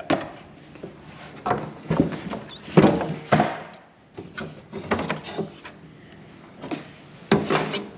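Knocks, clunks and scrapes of a table saw's parts being unscrewed and pulled loose by hand during disassembly, with a few short squeaks of parts rubbing.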